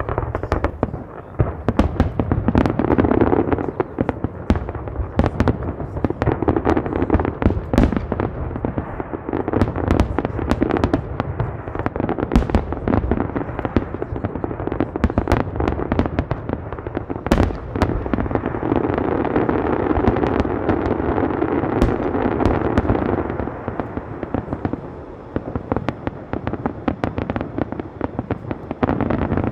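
Fireworks display going off in a dense, continuous barrage of bangs and crackling, many reports a second without a break.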